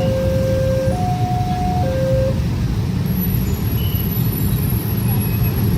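A railway level-crossing warning alarm sounds in two alternating notes, low then high, about a second each, and stops a little over two seconds in. Under it runs the loud, steady rumble of a passing train, with a thin high whine from about three seconds on.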